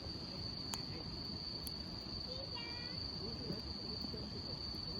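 Campfire burning with a low crackle and two sharp pops in the first two seconds, under a steady high-pitched insect trill.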